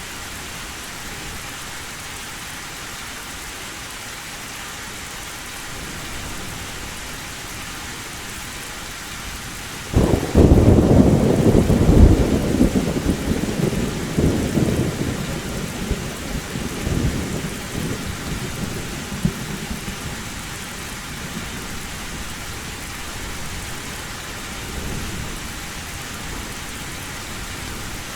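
Steady heavy rain on a metal roof. About ten seconds in, a sudden loud thunderclap rumbles for several seconds and slowly dies away.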